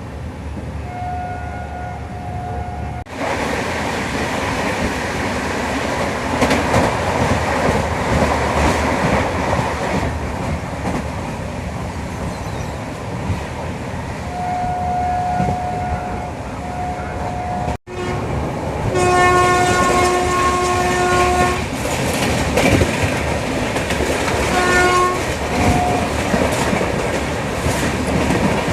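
Passenger train running on the rails, with its locomotive horn sounding several times: two blasts about halfway through, a longer, fuller blast a few seconds later, and two short toots near the end.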